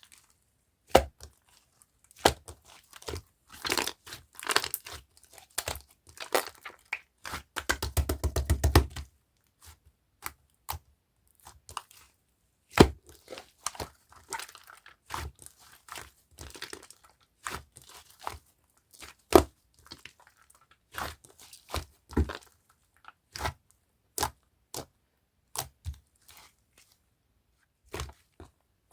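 Clear purple slime with clay mixed in being squeezed and stretched by hand, giving irregular sticky clicks and small air-pocket pops. About eight seconds in, a fast run of clicks as the slime is pumped quickly.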